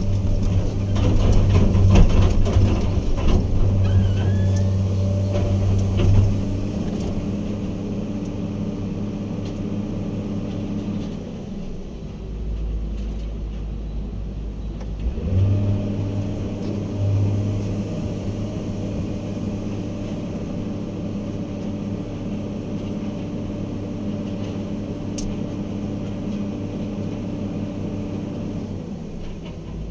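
Heavy diesel engine of earthmoving equipment running under load, with clanks and knocks in the first few seconds. The engine drops to a low idle about eleven seconds in and rises back to working speed about four seconds later.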